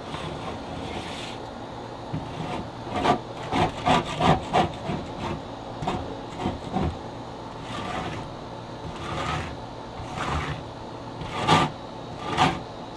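The scraper end of a grill brush scraping caked-on residue out of a barbecue grill, in irregular rasping strokes that come thickest a few seconds in and again near the end.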